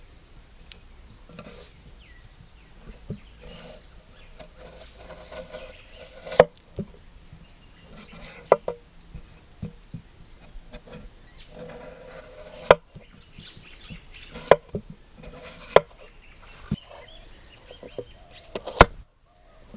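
A series of sharp wooden knocks, about seven, irregularly spaced, over faint bird chirping.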